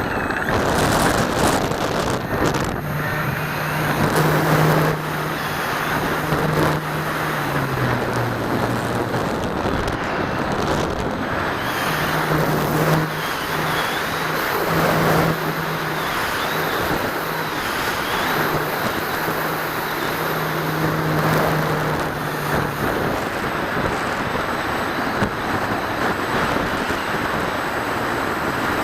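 Steady wind rush on the microphone of an onboard camera, with the hum of the Dynam C-47's twin electric motors and propellers: two close, steady tones that shift in pitch now and then and fade out for stretches.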